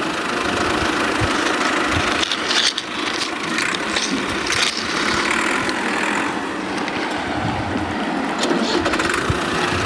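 Plastic toy vehicles pushed along the ground: a steady rolling, rattling noise from their wheels, with a few light knocks.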